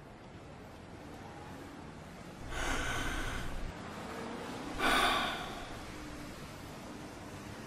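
A long, breathy drag on a cigarette, followed about a second later by a shorter, louder exhale as the smoke is blown out.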